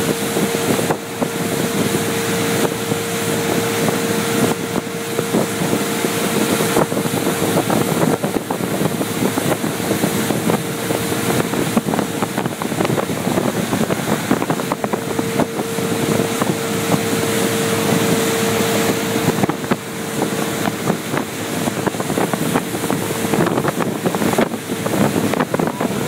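Motorboat running at speed, with a steady engine whine that fades out near the end, under strong wind noise on the microphone.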